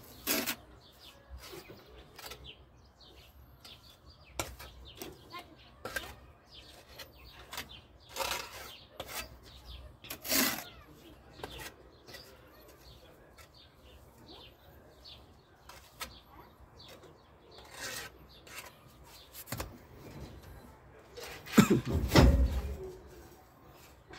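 Scattered knocks, clicks and scrapes of stones or bricks being handled and set in place, with a louder low thud and rumble near the end.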